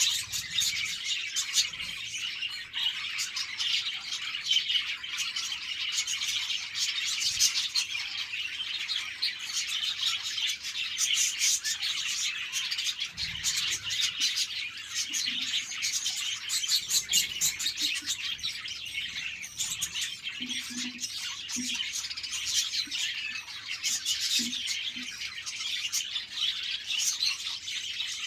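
A flock of budgerigars chirping and chattering without pause, many high calls overlapping.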